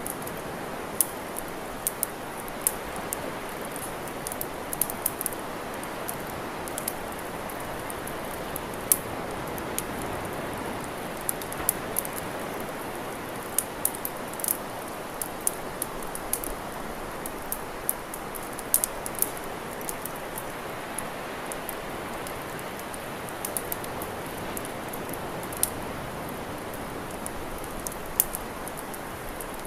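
Wood campfire crackling: frequent sharp, irregular pops and snaps over a steady soft rushing.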